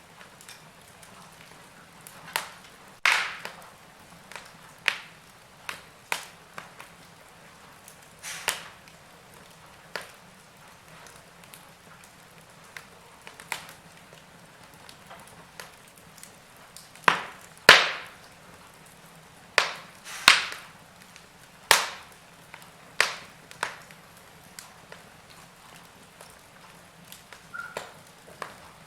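Fire in a fireplace crackling: irregular sharp pops and snaps, mostly a second or more apart, with a cluster of louder pops a little past the middle.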